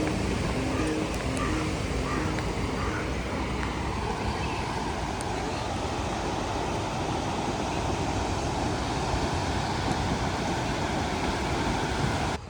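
Steady rushing noise of wind and sea surf on the microphone, with the tail of background music fading out in the first couple of seconds.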